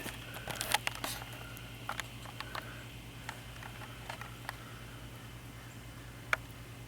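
Camera handling noise: scattered light clicks and taps, a cluster of them in the first second and the sharpest about six seconds in, over a low steady hum.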